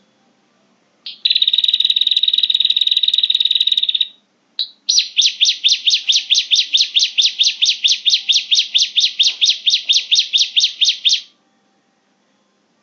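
Prenjak (prinia) call used as a bird lure: a short note, a fast buzzing trill for about three seconds, then after a brief break a rapid run of evenly repeated sharp chirps, about six a second, for roughly six seconds before it stops.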